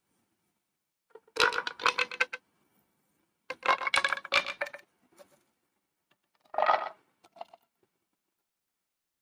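Plastic pop tube being stretched and squeezed: three bursts of rapid clicking pops with a faint pitched ring, each about a second long, about a second and a half in, about three and a half seconds in, and at the middle.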